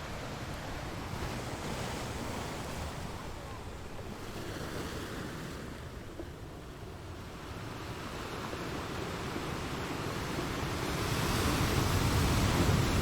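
Ocean waves washing on a shore, an even rushing hiss that ebbs about halfway through and then builds up louder as the next wave comes in near the end.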